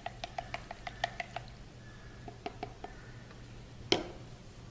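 A spoon clicking against the inside of a container as a liquid mix of vinegar, water and dish detergent is stirred: quick, even taps about six a second for the first second and a half, then a few scattered taps and one sharper knock near the end.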